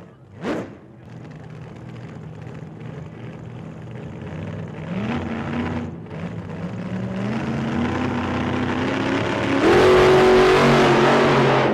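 Racing car engines revving and accelerating, their pitch climbing in steps and the sound growing louder toward the end. A car passes close about half a second in.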